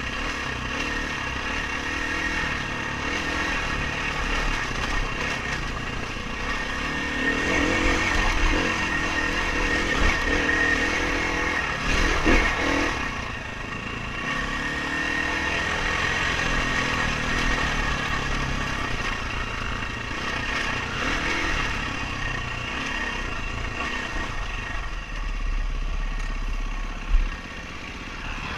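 Dirt bike engine running under load during a race, its revs repeatedly rising and falling. A sharp knock comes near the end.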